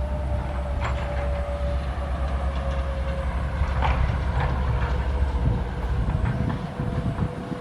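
Excavator working: diesel engine running with a steady rumble and a whine slowly dropping in pitch, broken by a few sharp metallic clanks.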